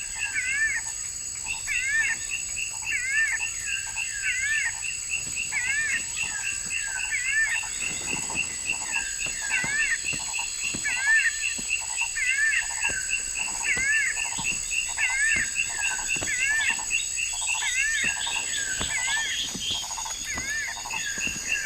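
Tropical forest animal chorus: a short two-part chirping call repeated about once a second, over a steady high-pitched insect drone.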